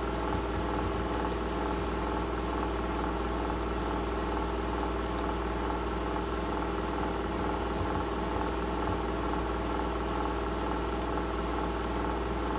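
Steady machine hum with many evenly spaced tones over a low drone, unchanging throughout, with a few faint clicks now and then.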